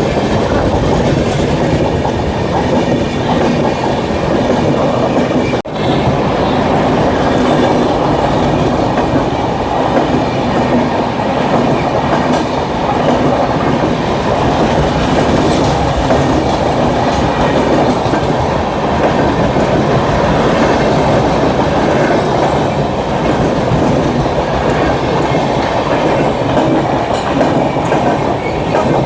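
Indian Railways train running close by, its wheels clattering steadily over the rail joints.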